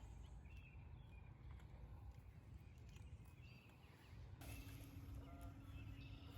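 Near silence outdoors: a faint low rumble with a few faint bird chirps. A faint steady hum joins about four seconds in.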